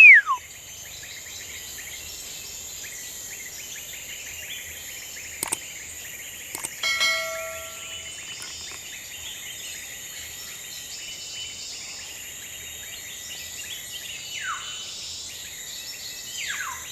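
Tropical forest ambience: a steady high insect drone, with birds giving loud falling whistles three times and a short ringing call about a third of the way in. A single sharp click sounds just before that.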